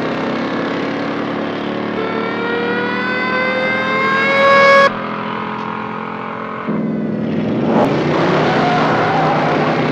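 Dubbed car engine sound effects: an engine accelerating, its pitch rising steadily for about three seconds before cutting off abruptly at an edit, then a second engine sound starting suddenly.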